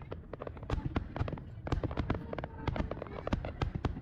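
Fireworks display going off: a rapid, irregular string of sharp bangs and cracks, several a second, over a low rumble.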